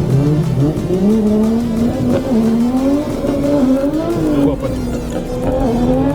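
A drift car's engine held at high revs, its pitch rising and falling as the throttle is worked.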